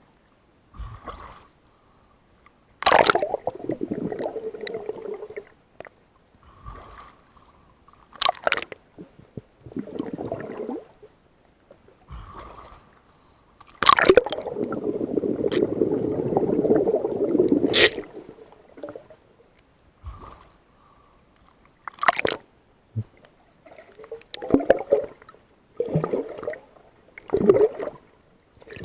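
Water sloshing and gurgling in irregular surges, some brief and some lasting a few seconds, each starting with a sharp splash; the longest and loudest surge comes about halfway through.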